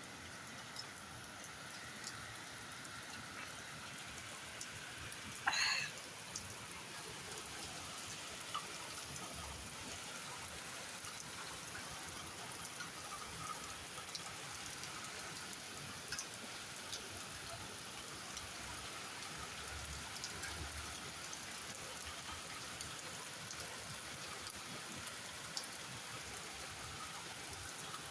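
Heavy rain falling steadily, with scattered individual drops ticking. About five seconds in comes one brief high-pitched sound, louder than the rain.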